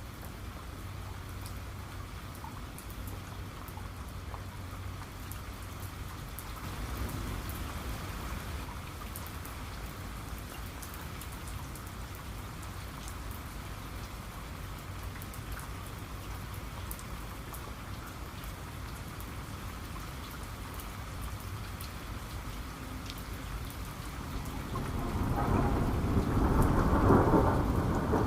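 Steady rain falling, with scattered drops pattering; near the end a roll of thunder builds up, rumbling loud and low over the rain.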